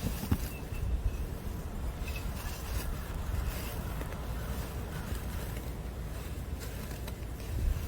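Wind rumbling on the microphone outdoors, a steady low buffeting noise, with a few soft knocks, one near the start and one near the end.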